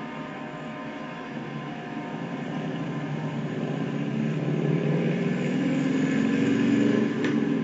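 A train approaching, its rumble growing steadily louder, with a single sharp click near the end.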